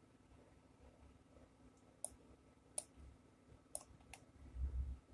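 A few sharp, separate computer mouse clicks while navigating a map program, with a brief low thump near the end.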